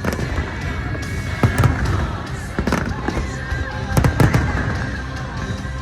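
Aerial fireworks bursting: several sharp bangs over a continuous low rumble, with music playing alongside.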